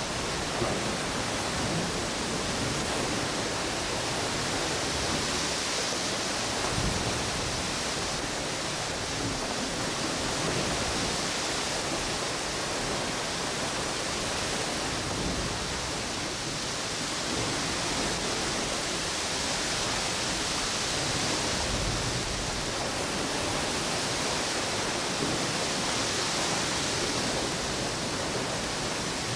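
Ocean waves washing onto a beach, mixed with wind blowing through palm trees: a steady rush of noise that swells and eases every several seconds.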